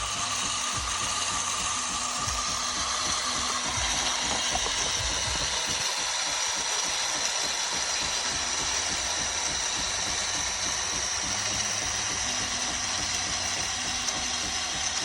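Philips 3200 Series automatic espresso machine running with a steady mechanical hum and a constant high-pitched whine, with no pauses.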